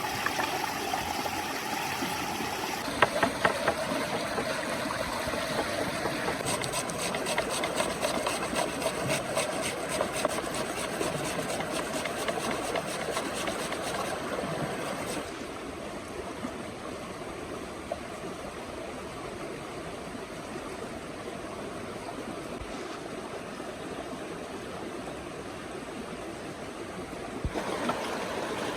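A stream running steadily, with a few sharp knocks about three seconds in and a fast run of clicks from about six to fourteen seconds. The background changes abruptly twice.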